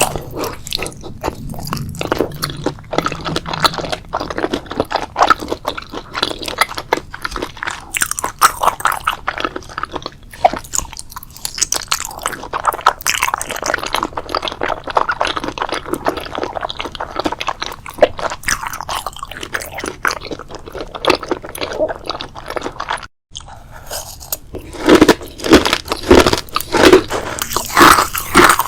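Close-miked ASMR eating: continuous crunching bites and chewing of food. After a split-second dropout near the end, the bites come louder and crunchier.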